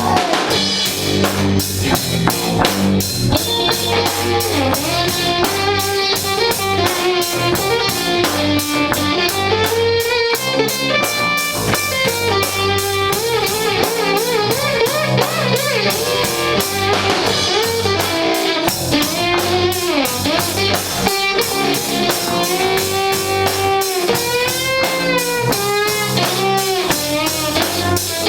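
Live garage rock band playing instrumental music: electric guitar with notes bending up and down over a steady drum kit beat and bass.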